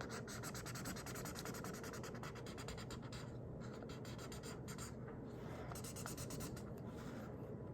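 Marker scribbling on paper in rapid back-and-forth colouring strokes, stopping briefly a few times.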